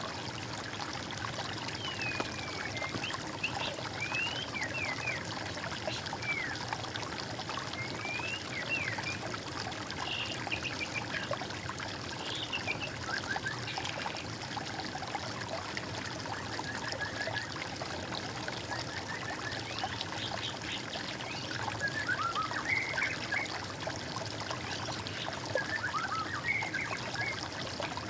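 Water trickling steadily, with small birds chirping and twittering over it in short scattered bursts, fewer through the middle.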